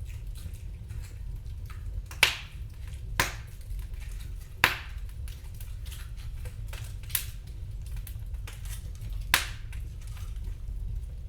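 Wood fire crackling in a fireplace: irregular sharp pops and snaps, four of them loud, over a steady low rumble.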